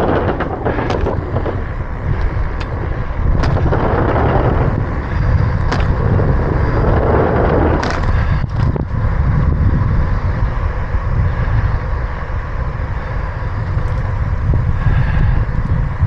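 Wind buffeting the microphone of a camera on a moving bicycle, a steady loud rumble, with tyre and trail noise and a few sharp clicks and knocks from the bike scattered through it.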